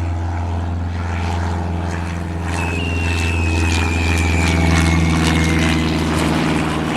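Light twin-engine airplane's piston engines and propellers running at a steady drone with a deep hum, a faint thin tone sliding slowly down in pitch through the middle.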